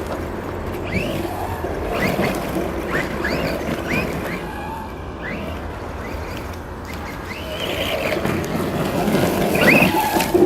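Birds chirping, short calls recurring every second or so, over a steady low rumble.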